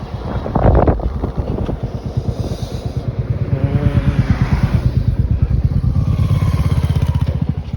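Royal Enfield Hunter 350 single-cylinder motorcycle engine running on the move, its exhaust beating in a dense, even pulse. A brief louder rush of noise comes about half a second in, and the engine grows louder from about three seconds in.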